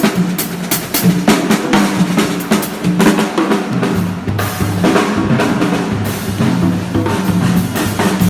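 Drum kit and percussion played together by a duo, a busy groove of many quick hits with bass drum and snare.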